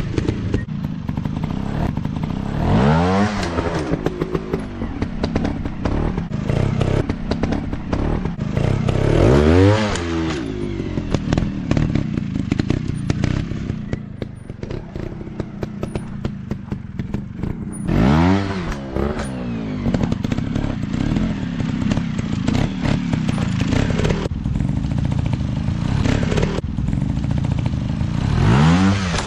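Off-road dirt bike engines running, revving up and back down four times over a steady engine drone, with rattling clatter throughout.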